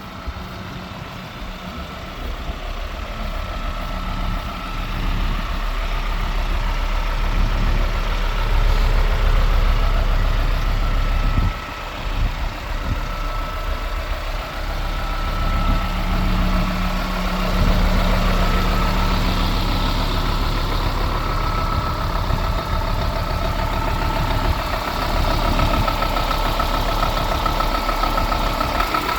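A Scania P320 truck's 9-litre five-cylinder diesel engine running steadily at idle, with a thin steady whine over the engine sound. It grows louder over the first several seconds and dips briefly about 11 seconds in.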